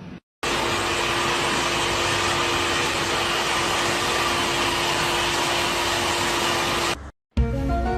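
Steady rushing noise of a motorised appliance, like a vacuum cleaner or hair dryer, with a steady hum. It starts suddenly just under half a second in and stops suddenly about a second before the end.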